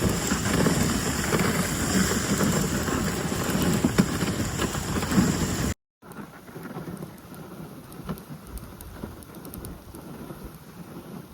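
Wind buffeting a phone's microphone on a moving dog sled: a loud rushing noise. It cuts off about six seconds in, and a quieter rushing with scattered light ticks follows.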